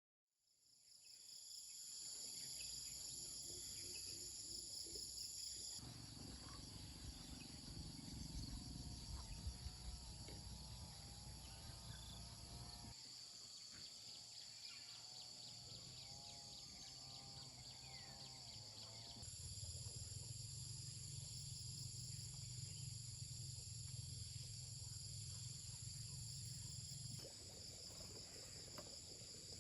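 Insects chirping steadily in a faint rural outdoor ambience, with a low background rumble that shifts abruptly several times.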